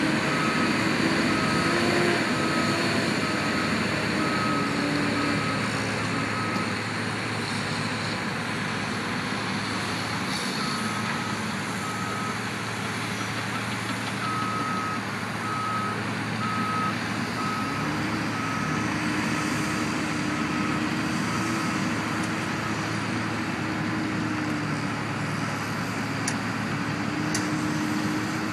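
Heavy vehicle's back-up alarm beeping in a steady series, about one and a half beeps a second, over its running engine. The beeping stops and restarts twice, then stops near the end, while the engine runs on.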